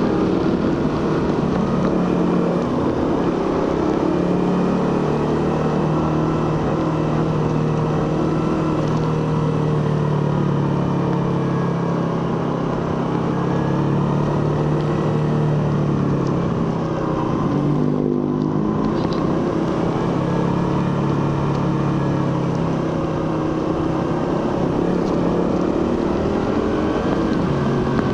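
Suzuki GSX-R150's single-cylinder engine and stock exhaust running steadily under way. About two thirds through the throttle eases off briefly, then the revs climb again near the end.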